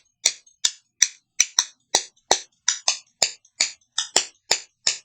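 Two tablespoons clacked against each other in a quick, uneven rhythm, about three sharp clicks a second, some in quick pairs, each with a brief ring: the old homemade spoon percussion effect.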